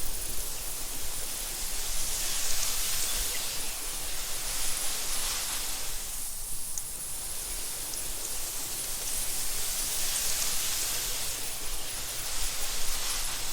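Wind blowing through tall meadow grass, a steady hissing rustle that swells and eases in slow gusts, dipping briefly about halfway through.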